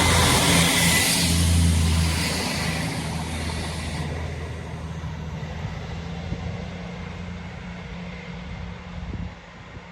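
Diesel multiple unit passing through and pulling away. Its engine drone and wheel noise are loudest at first and fade steadily, and the low engine note drops away about nine seconds in.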